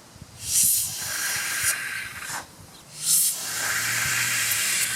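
Air blown hard into a riding mower's fuel tank in two long hissing blasts of about two seconds each. The blasts only pressurize the tank and push no fuel through the blocked fuel line.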